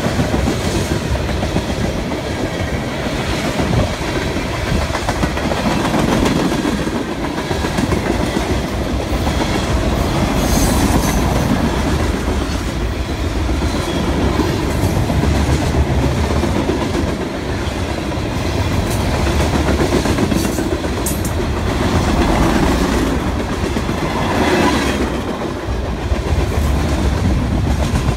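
Freight cars of a Kansas City Southern train rolling past close by: a steady loud rumble of steel wheels on the rails with a clickety-clack over the rail joints. A couple of faint brief high-pitched squeaks come through about a third and two thirds of the way in.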